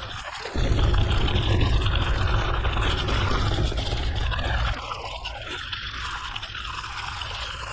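Mountain bike riding on an unpaved forest road: wind rumbling on the microphone over a steady hiss of tyre noise, the rumble easing about five seconds in.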